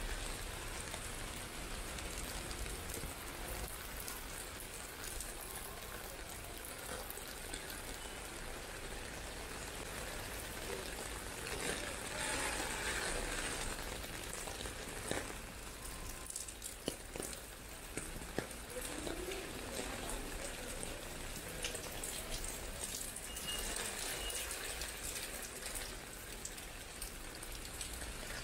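Steady rain falling, an even hiss with a few sharp taps of drops about halfway through.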